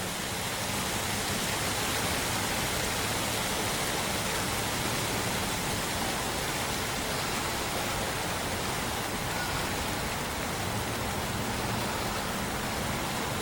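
Steady rain falling, an even hiss without pauses or thunder.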